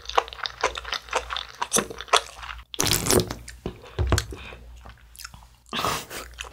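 A person chewing crunchy noodle wraps up close, with a quick run of crisp crunches, a brief break, then more chewing and a low knock about four seconds in.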